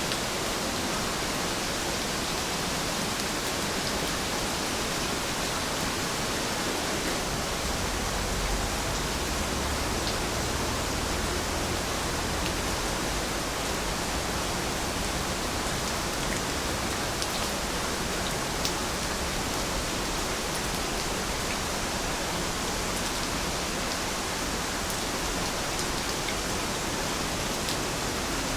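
Heavy rain falling steadily: an even, continuous hiss with faint scattered drop ticks.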